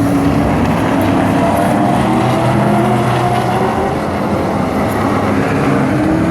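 Several Midwest Truck Series race trucks running hot laps on a short oval. Their engines blend into a loud, steady drone that slowly dips and rises in pitch as they circle.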